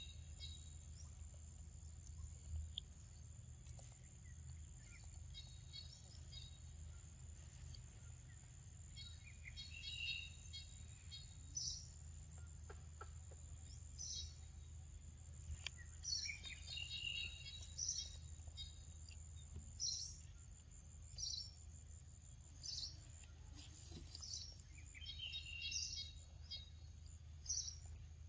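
Wild birds calling every few seconds, some in quick trilled phrases and others as single sharp notes, over a steady high-pitched whine and a low background rumble.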